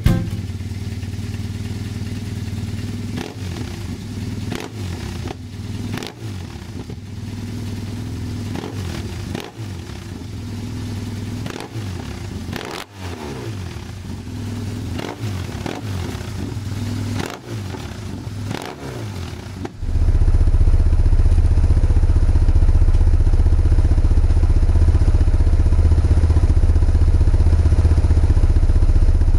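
BMW R 1150GS boxer-twin engine idling between repeated throttle blips, each rev rising and falling back. About two-thirds of the way through it changes suddenly to a louder, steady engine note.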